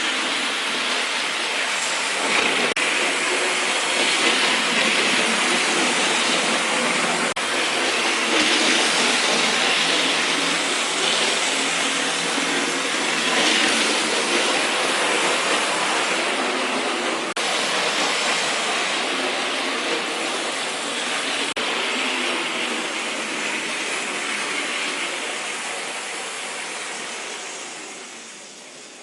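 Tyco HO-scale model of a GG-1 electric locomotive running steadily along its track, motor and wheels making a continuous whirring noise that fades out over the last few seconds.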